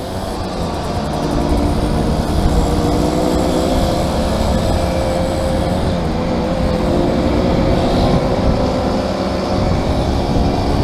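Small motorcycle engine running at a steady cruising speed, its pitch wavering slightly, with wind rumbling on the helmet camera's microphone.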